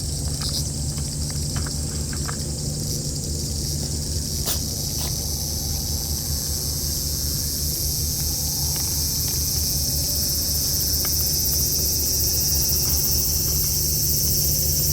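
Steady high-pitched insect chorus that swells louder from about halfway through, over a constant low hum, with a few faint clicks.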